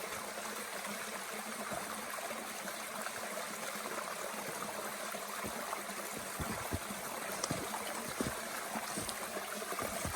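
A mountain stream runs steadily while a small wood fire crackles in a Bushbox twig stove, its sharp pops coming more often in the second half.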